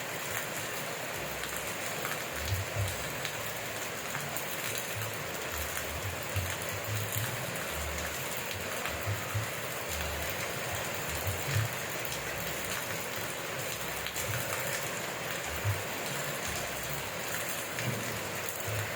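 Steady rain falling, an even hiss throughout, with irregular soft low thuds scattered through it.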